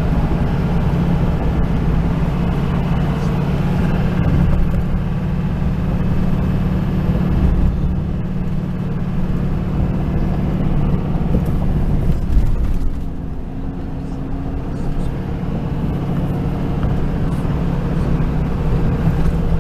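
Inside the cab of a 2005 Chevy Silverado 2500 HD with its Duramax 6.6 L V8 turbodiesel, driving at road speed: a steady low drone of engine and road noise. It eases off and gets quieter about 13 seconds in, then picks up again a few seconds later.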